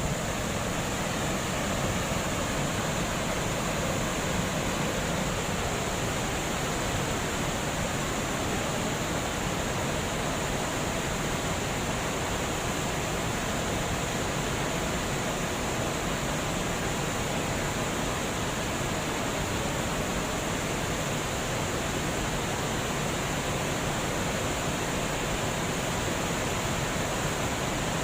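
Water flowing over a dam, a steady, even rush with no breaks or changes.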